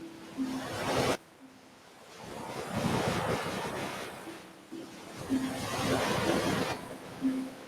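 Ocean surf: waves breaking and washing up a beach, swelling and receding. The wash cuts off abruptly about a second in, then a new wave builds and fades near the end.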